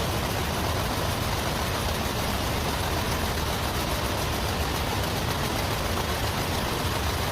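Nail-making machinery running steadily, a dense even mechanical clatter with no pauses.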